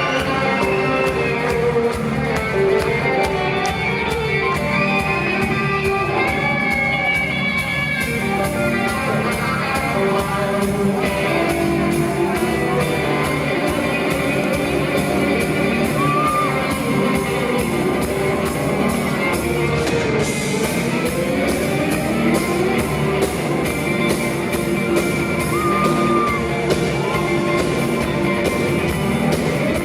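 Live band music in a large hall, with guitar and singing, and shouts and whoops from the audience.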